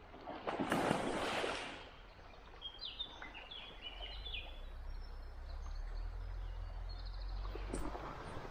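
A loud noisy swish lasting about a second, starting about half a second in, then a bird calling a quick series of short falling chirps, with a low rumble underneath later on.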